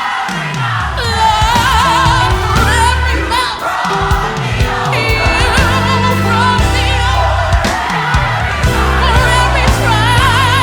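Gospel music: a choir and lead vocalists singing with melismatic runs over a band with sustained bass.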